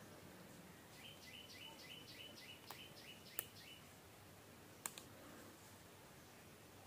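Near silence: faint room tone with a small bird's quick chirps, about three or four a second, for a few seconds, and a few light clicks, the sharpest two about a second and a half apart.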